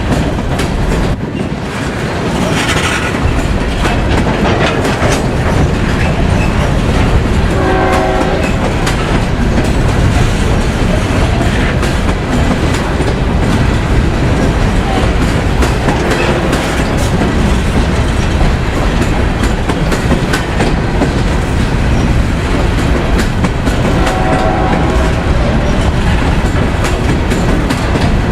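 A freight train rolling past loudly, its wheels clicking over the rail joints. A short horn blast sounds about eight seconds in, and a fainter one comes near the end.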